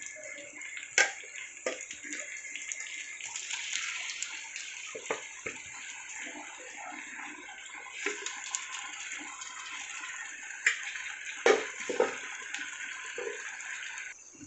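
Raw chicken marinated with salt, turmeric and chilli sizzling in hot oil with fried onions and ginger-garlic paste in a kadai: a steady sizzle with a few sharp knocks, the loudest about a second in and twice near the end.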